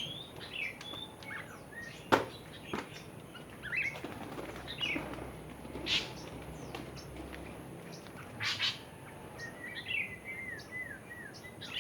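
Free-flying birds chirping and calling, with short chirps and gliding whistles scattered throughout. Sharp clicks come about two seconds in, and brief louder bursts come near the middle and later on.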